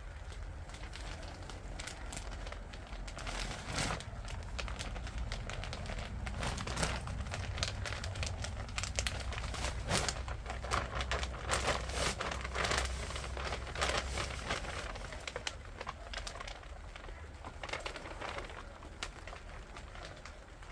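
Dense rustling and crackling, busiest in the middle of the stretch, over a steady low rumble.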